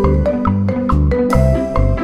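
Upbeat background music: short struck notes of a mallet-like melody over a steady bass beat.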